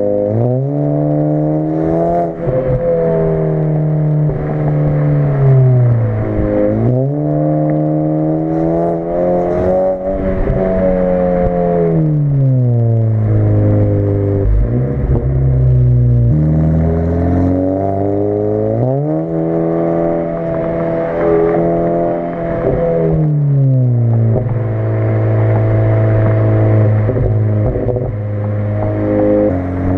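Audi A4 B9's 2.0-litre turbocharged four-cylinder through an AWE Track Edition exhaust, pulling under load as the car is driven. The engine note climbs, holds, and falls several times, with quick dips in pitch like gear changes and a slower drop as it eases off.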